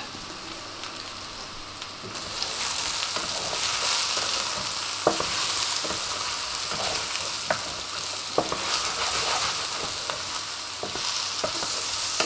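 Button mushrooms sizzling as they fry in hot fat in a pan. The sizzle grows louder about two seconds in, with a few short clicks from stirring.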